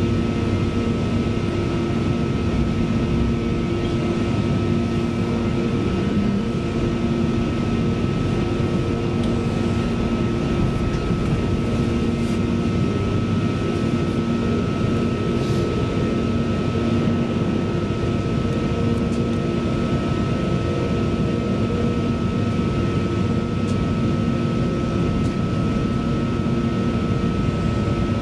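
Cabin noise inside a CAF Class 331 electric multiple unit running at a steady speed: an even rumble of wheels on rail with several steady humming tones held throughout.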